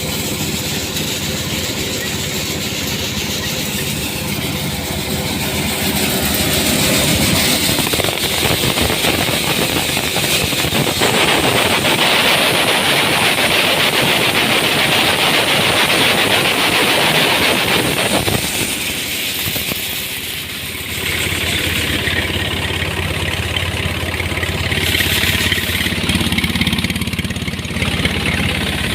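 Mini tractor engine driving a chickpea or peanut thresher, running steadily. It gets louder with a rushing noise from about 11 to 18 seconds in, then eases briefly around 20 seconds.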